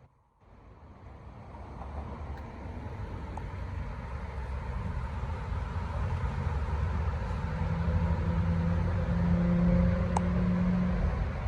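Vintage road motorcycle's engine running steadily. It fades in over the first couple of seconds and slowly grows louder, loudest about three-quarters of the way in.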